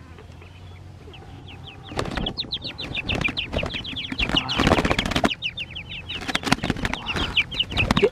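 Small birds chirping in quick, high, falling notes, several a second, with bouts of wings flapping and rustling; it starts about two seconds in after a quiet opening.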